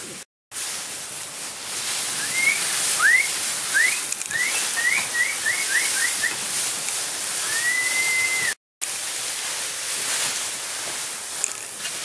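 A bird calling: a run of short rising whistled chirps, then one long arching whistled note, over a steady high hiss. The sound cuts out completely for a moment twice, near the start and about two-thirds of the way through.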